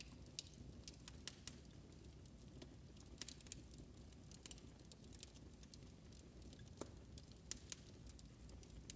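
Faint wood fire crackling: irregular sharp pops and snaps, several a second, over a low steady rumble.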